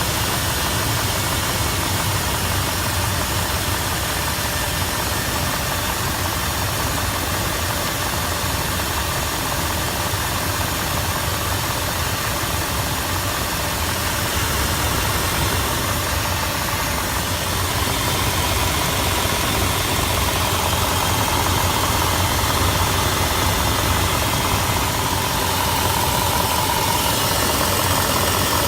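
Dodge Durango's 4.7-litre V8 idling cold, with a knock coming from the middle cylinders. The knock shows on a cold engine and is barely heard once the engine is warm. The sound gets a little louder in the second half.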